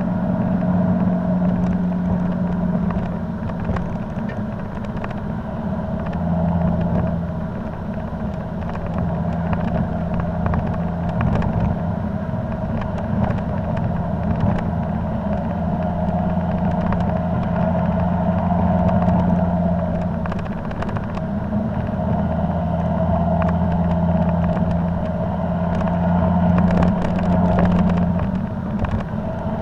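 Volvo C30 D5's five-cylinder diesel running steadily through an aftermarket Powerflow cat-back exhaust with the diesel particulate filter removed, a constant drone whose pitch dips and returns a little.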